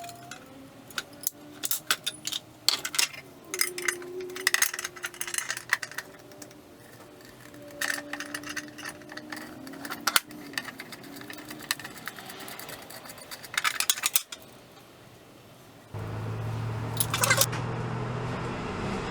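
Small metal parts of a vintage jawbreaker vending machine clinking and clattering as they are handled and taken apart. Near the end this gives way to a steady hum.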